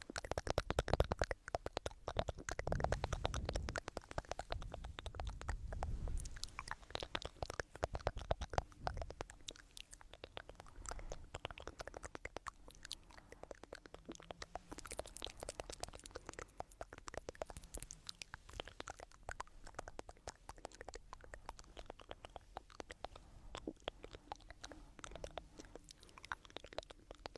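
Close-miked ASMR trigger sounds: dense fine crackling and clicking, heavier and fuller with low rumbles for the first nine seconds or so, then lighter and sparser.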